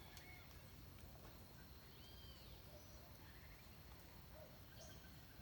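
Faint, scattered calls of distant forest birds: one arched note about two seconds in, then a few short, lower notes. A low rumble of background noise lies under them.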